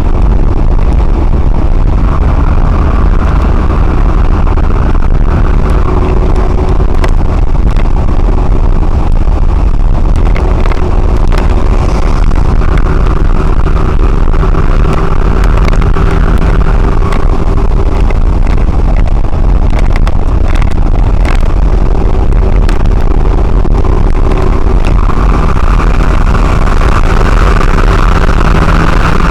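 Lorry on the move: loud, steady road and engine noise. A faint engine tone fades in and out a few times, and there are a few scattered clicks.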